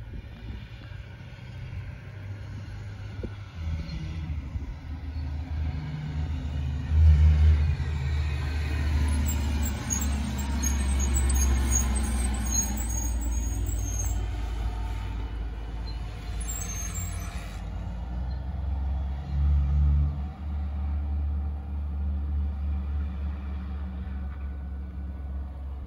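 Motor vehicle rumble: a steady low drone that swells louder through the middle, with brief louder surges about seven and twenty seconds in.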